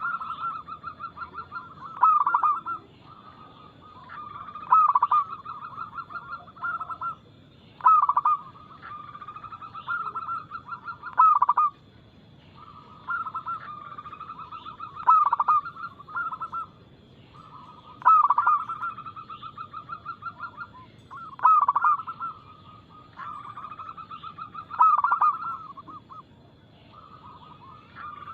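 Zebra dove (perkutut) cooing in repeated phrases every two to three seconds, each opening with a loud note and running into a fast series of pulsing coos.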